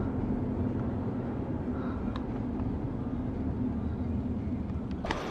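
Steady engine and road noise heard from inside a moving vehicle, a low rumble with a constant hum.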